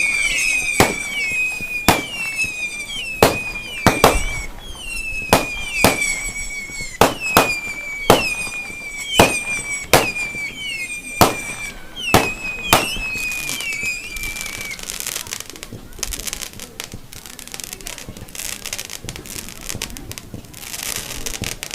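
Fireworks display: a run of sharp bangs about once a second, each with a whistle that falls in pitch. After about fourteen seconds the bangs and whistles stop and dense crackling takes over.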